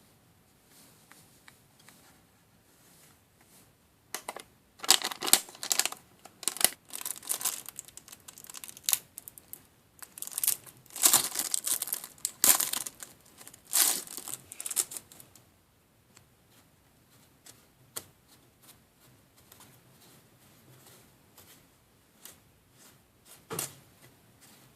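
Plastic packaging crinkling and tearing in repeated bursts for about ten seconds, as a DIY candy kit's packets are handled and torn open, followed by a few light clicks and taps.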